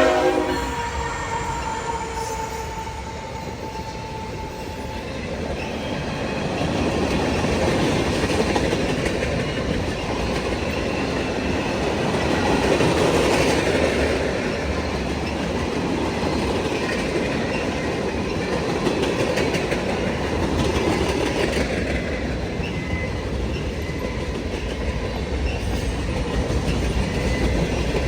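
The last of a freight locomotive's horn dies away in the first second or two. Then a long freight train's cars roll steadily past, wheels clattering over the rail joints.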